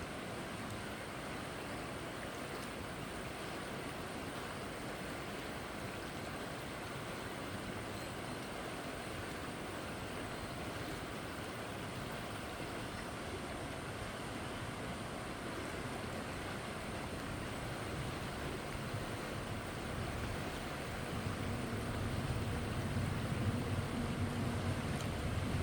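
Fast-flowing stream water rushing steadily over and below a dam. A low droning hum grows louder over the last few seconds.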